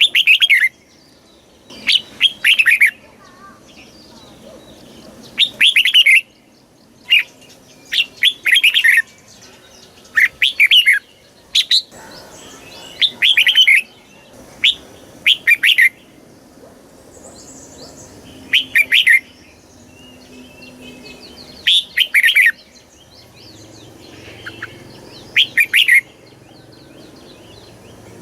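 Red-whiskered bulbul singing: short, fast phrases of several quick warbled notes, repeated every second or two.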